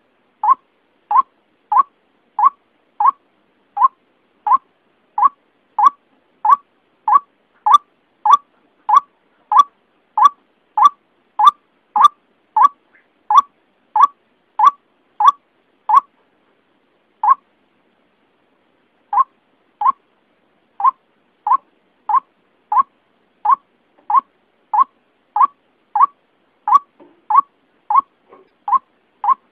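White-breasted waterhen (ruak-ruak) lure call: short, clipped notes repeated at about one and a half a second. There is a pause of a few seconds, broken by one lone note, about two-thirds of the way through, before the series resumes.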